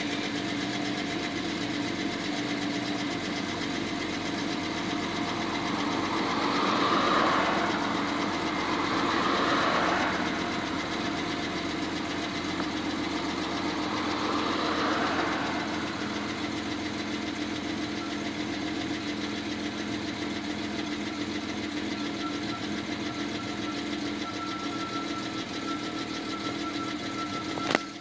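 Jaguar XJ6 straight-six engine idling steadily while warming up, heard from inside the cabin, swelling a little twice in the first half. The idle is settling as the auxiliary enrichment device, the cold-start device, closes near running temperature. A thin steady whine joins in during the later part, and there is a short click near the end.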